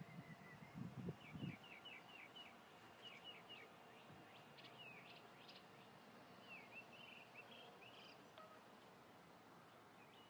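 Quiet outdoor background with faint birds chirping: several quick strings of short, falling chirps. A few soft low thumps near the start.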